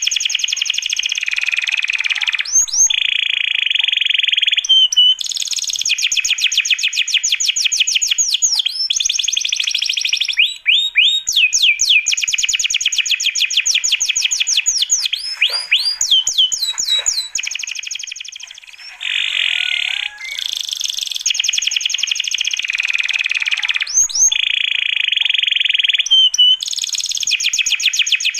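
Small songbirds singing loudly in a bird-song training recording used to teach young white-rumped shamas: long buzzing trills alternate with rapid series of high sweeping chirps, in phrases that repeat.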